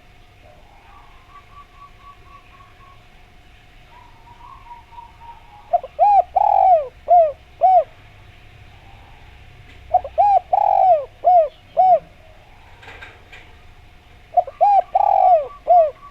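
Spotted dove (derkuku) cooing: three phrases a few seconds apart, each a quick run of short coos with one longer note in the middle. A faint steady tone and a few faint short notes run underneath.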